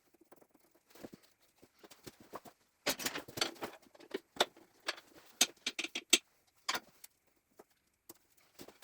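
Steel timing chain of a Gardner 2LW diesel engine being worked off its sprockets by hand: irregular metallic clinks and rattles, busiest from about three to seven seconds in.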